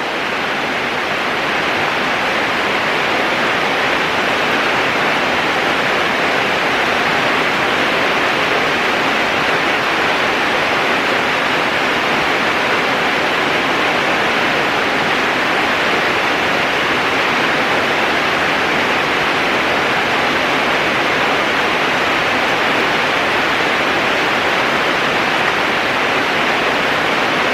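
Heavy rain pouring down in a steady, dense hiss, growing a little louder over the first two seconds and then holding level.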